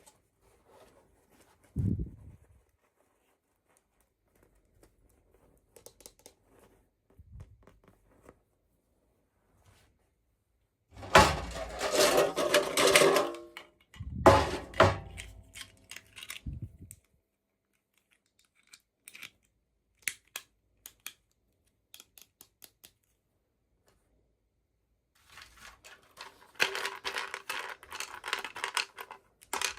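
Toy packaging being handled and opened: a dull thump, then two bursts of plastic crinkling and tearing, a run of scattered light clicks, and a last stretch of rustling near the end.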